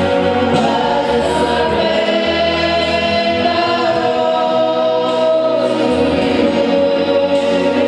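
Choir singing a gospel worship song, with long held notes over steady low backing notes.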